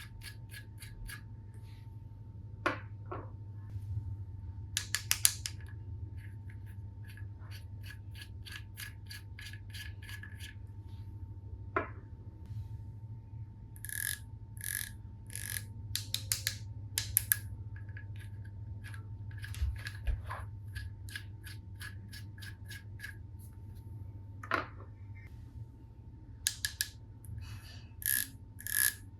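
Plastic toy tools clicking in runs of evenly spaced ratchet-like clicks, a few a second, with a few louder single knocks, over a steady low hum.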